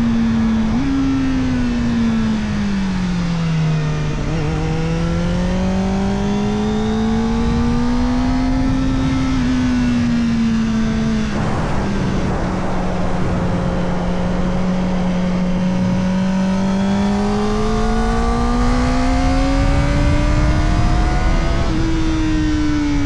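Kawasaki ZX-4RR's inline-four engine through an Arrow Indy Race Evo titanium exhaust with the dB killer fitted, under way with steady wind rush. The revs fall, step up sharply about a second in, climb and ease off, hold low and steady through the middle, then climb again and drop suddenly near the end.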